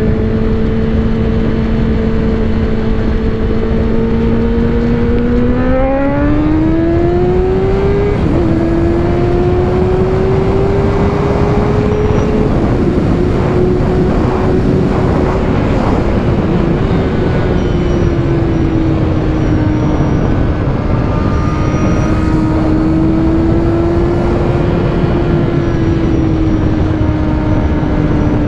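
Motorcycle engine heard from the rider's helmet mic over heavy wind rush. It holds a steady speed, revs up from about five seconds in, drops sharply at a gear change about eight seconds in, then pulls on at a gently varying pace. The wind noise is coming past an acoustic-foam seal fitted in the helmet's chin gap.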